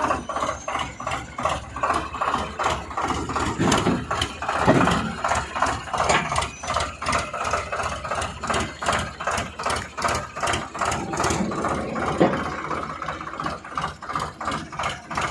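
Eicher 557 tractor's diesel engine idling, with an even pulsing beat of about three or four knocks a second.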